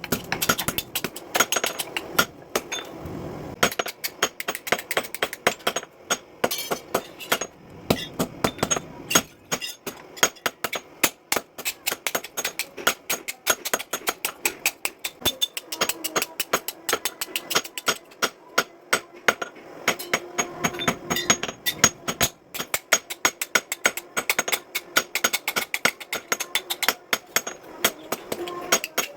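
Hammer blows on steel being forged into a sickle blade: a long run of sharp metallic strikes, about three to four a second, with a ringing tone after the blows.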